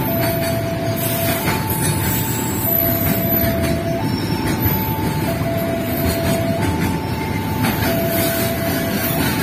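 Container freight wagons rolling past with a steady rumble of wheels on rail and a few faint clacks. Over it a level crossing warning alarm sounds, two notes alternating, low then high, each held about a second and a half.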